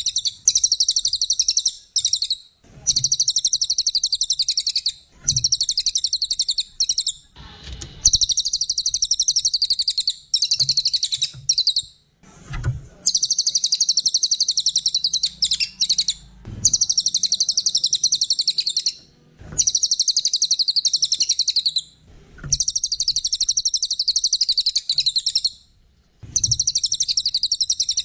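A cililin (trilling shrike-babbler) singing its rapid, high trill over and over, in phrases of two to three seconds with short breaks between them.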